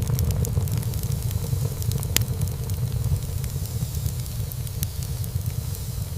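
Wood fire burning in a fireplace: a steady low rumble of flames with scattered crackles and small pops of burning wood, one sharper pop about two seconds in.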